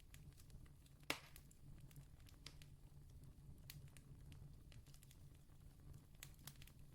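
Distant campfire crackling faintly, with scattered sharp pops and snaps over a low rumble; one louder pop about a second in.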